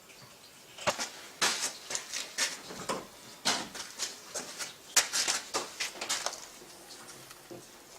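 An irregular run of sharp clicks and knocks of hard objects being handled, about a dozen over five seconds, starting about a second in and dying away before the end.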